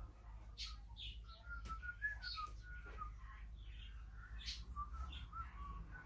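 Birds chirping and singing: a run of short clear notes wavering up and down, with sharper high chirps scattered over it.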